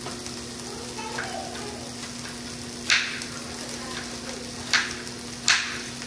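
Beef and sliced bell peppers sizzling steadily in frying pans over a low hum. A kitchen knife strikes sharply on a cutting board while slicing an onion, once about three seconds in and twice near the end.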